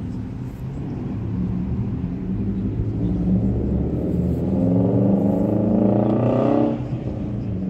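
A car engine accelerating hard: a low rumble that climbs steadily in pitch and loudness for about four seconds, then drops off suddenly near the end.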